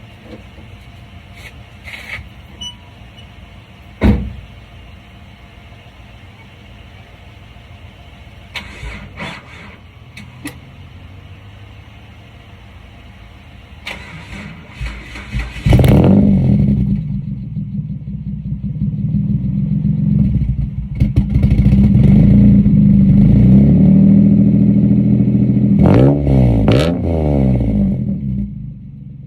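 2003 Mitsubishi Eclipse GTS V6 started from cold: a few clicks and a sharp knock, then the starter cranks briefly and the engine catches just past halfway with a loud flare. It runs loud and steady for several seconds, gives a couple of quick revs near the end, then drops back.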